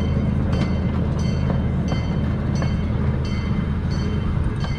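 Amusement-park miniature train running along its track, heard from an open passenger car: a steady low drone from the train, with a regular click of the wheels over the rail joints about every three-quarters of a second.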